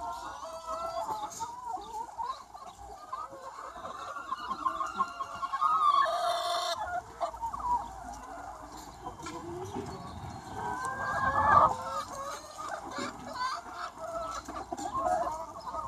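A large flock of free-range hens clucking and calling over one another continuously. One louder, sharper call comes about six seconds in, and another swells to the loudest point near twelve seconds.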